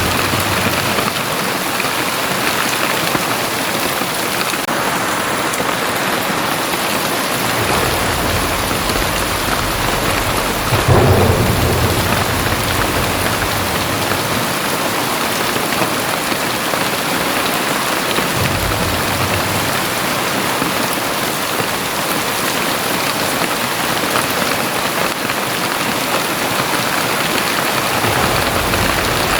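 Very heavy rain pouring steadily on surfaces, with low rolls of thunder rumbling underneath; the loudest roll peaks about a third of the way in, with shorter ones later.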